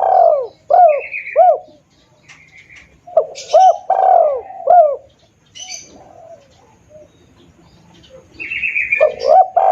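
Spotted dove cooing in loud, clear bouts of arched coo notes, three bouts a few seconds apart, with higher chirping notes between them. This is the tekukur call used to lure wild doves.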